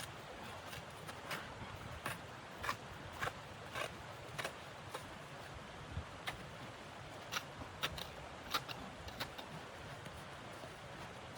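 Footsteps in snow: a short crunch every half second or so, pausing briefly about five seconds in, over a steady faint hiss.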